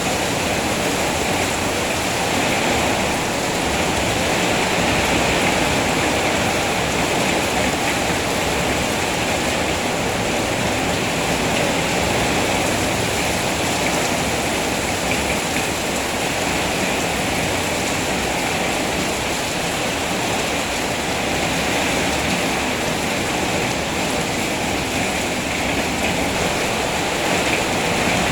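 Steady rain, an even, unbroken hiss with no single drops or gusts standing out.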